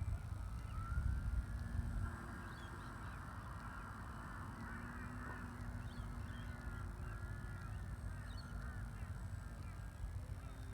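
A flock of birds giving many overlapping honking calls, over a low rumble of wind on the microphone, with a faint steady hum underneath.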